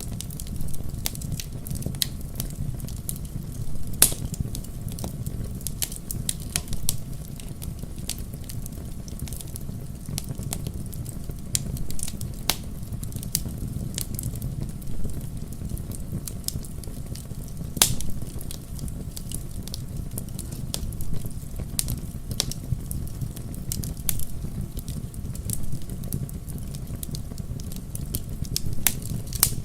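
Wood fire crackling in a fireplace: frequent sharp pops and snaps over a steady low rumble of flame. A few louder pops stand out, one about four seconds in and another a little past halfway.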